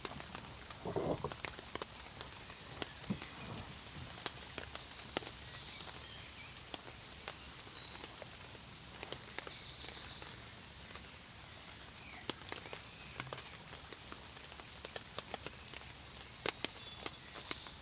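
Steady rain with scattered drops tapping sharply on a hard surface. Short high chirps come and go over it, and there is a brief low rustling thump about a second in.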